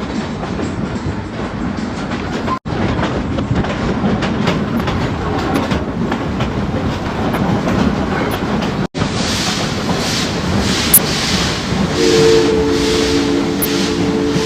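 Steam train running on the track, its wheels clacking over the rails. About twelve seconds in, the locomotive's whistle sounds a steady three-note chord that runs on to the end.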